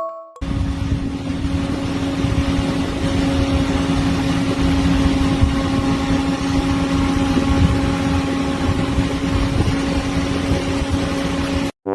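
A motor running with a steady drone: a constant hum over a rushing noise, which starts just after the beginning and cuts off suddenly near the end.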